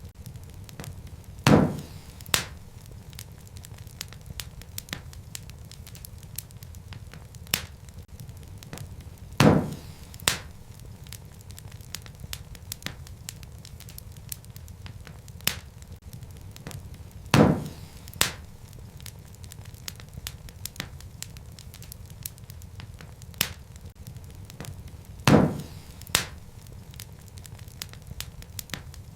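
Wood fire crackling: a steady low rumble of flames with many small crackles. Every eight seconds or so comes a loud pop, followed within a second by a second, smaller pop.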